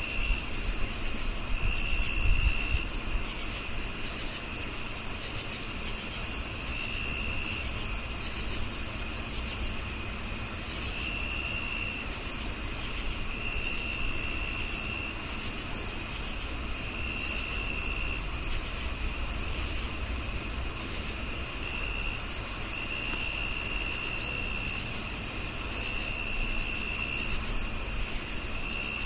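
Crickets chirping in chorus: a steady high-pitched trill, a regular chirp about twice a second, and a lower trill that starts and stops every few seconds, over a faint low rumble.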